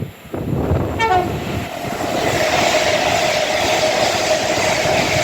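Class 390 Pendolino electric train passing at speed: a rush of wheel and air noise builds about two seconds in and stays loud, with a steady tone running over it. A short tone falling in pitch sounds about a second in.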